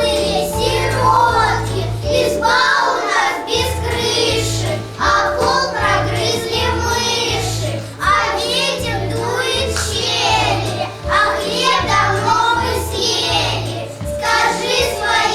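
Children singing a song together over a recorded instrumental backing track with a steady, repeating bass line.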